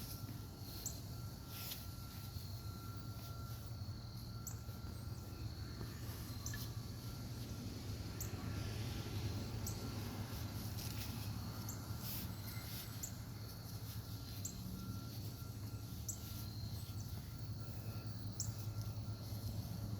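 Quiet outdoor background: a steady low hum, with short high-pitched chirps every second or so.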